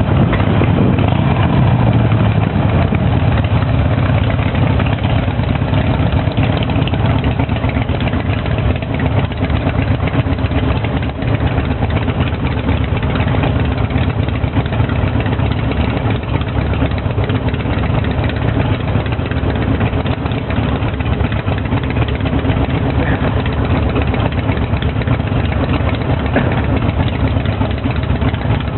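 Harley-Davidson motorcycle engine running steadily.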